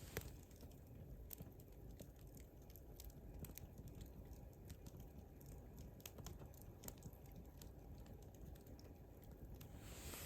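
A campfire crackling faintly, with irregular sharp pops and snaps from the burning wood over a low rumble.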